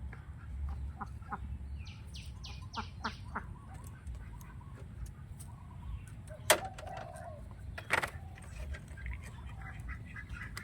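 A bird calling: a quick run of five short, falling chirps about two seconds in, with a few scattered softer calls. Two sharp clicks come later, over a low steady rumble.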